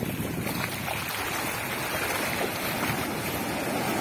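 Ocean surf: waves breaking and washing up the beach in a steady rushing hiss that swells a little toward the end.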